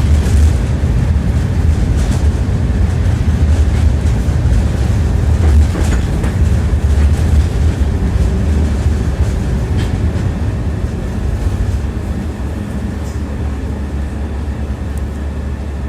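Tram running along the track, heard from inside the car: a steady low rumble with the knock of the wheels over rail joints here and there, easing off over the last few seconds as the tram slows.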